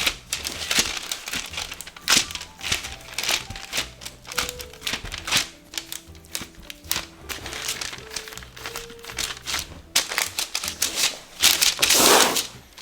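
Paper crinkling and rustling as it is handled, in many short crackles, with a longer, louder rustle near the end. Soft background music plays under it.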